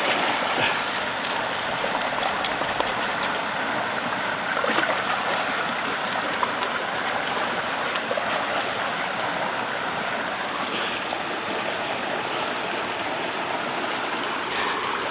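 Mountain stream rushing, a steady wash of running water.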